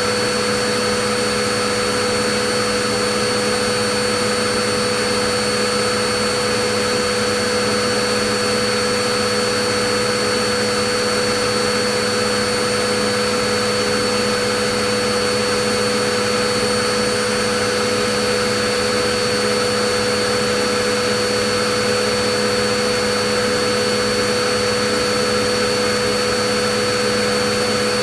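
Vacuum cleaner running steadily: an even rushing hiss with a constant motor whine.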